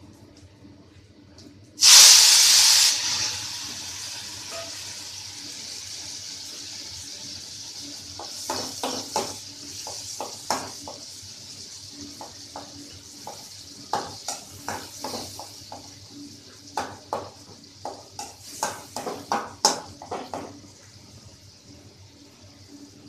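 Chopped tomatoes hitting hot oil in a kadai: a sudden loud sizzle about two seconds in that settles into a steady frying hiss. From about eight seconds a spatula stirs the tomatoes, knocking and scraping against the pan in a run of short strokes.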